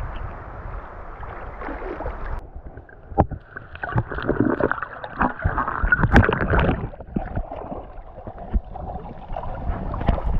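Canoe being paddled: paddle strokes splashing and swirling in the water, with irregular knocks against the hull, busiest in the middle of the stretch.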